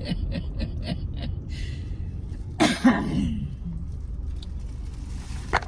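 A person coughing, two harsh coughs in quick succession about two and a half seconds in, over a steady low hum.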